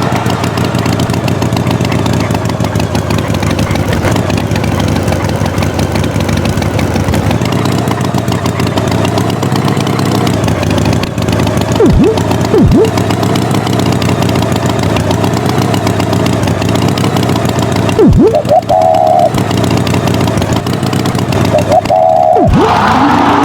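Animated tractor's engine sound effect running steadily and loudly, with a few quick falling pitch sweeps twice about halfway through and twice more near the end.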